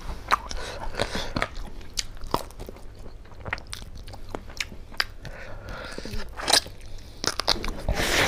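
Close-miked chewing of pork curry and rice eaten by hand: a steady run of short clicks and smacks from the mouth.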